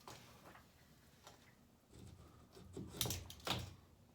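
Quiet handling noise from work: light rubbing and rustling, then a few sharp knocks, the two loudest about three and three and a half seconds in.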